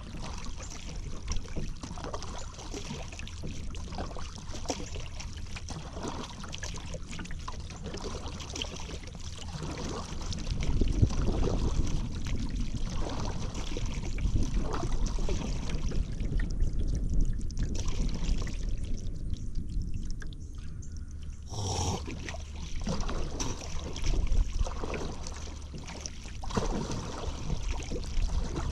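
Paddle strokes through river water, with water pouring and trickling off the paddle blades between strokes. A brief sharp knock or splash stands out about 22 seconds in.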